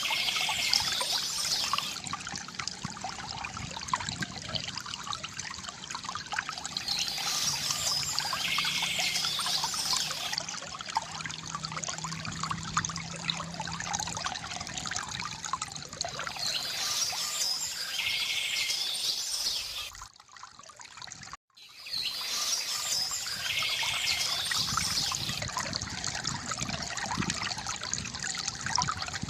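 Water trickling and splashing from a bamboo fountain, with a bird chirping in short phrases that return every several seconds. The sound drops out almost completely for about a second and a half, a little past two-thirds of the way through.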